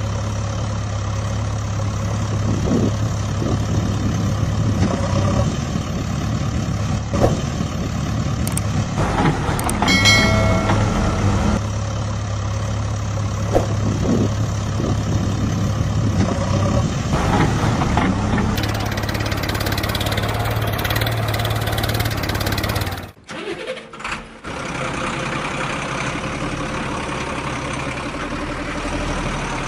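Heavy vehicle engine running steadily with a low hum. There is a short higher tone about a third of the way in and a brief drop-out about two-thirds through.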